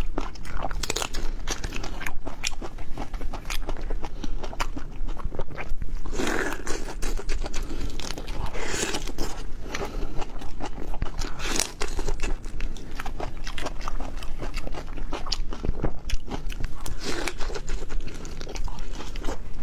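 Close-miked eating: biting, crunching and chewing with many sharp clicks, and a few longer wet smacks or slurps now and then.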